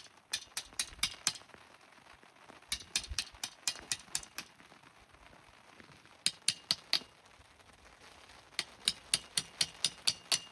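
Tent pegs being hammered in: sharp metallic strikes with a light ring, coming in quick bursts of four to eight at about four a second, with short pauses between bursts.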